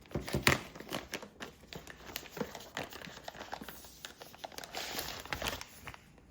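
Packaging being handled: crinkling and rustling with many irregular small clicks and taps, busiest about five seconds in.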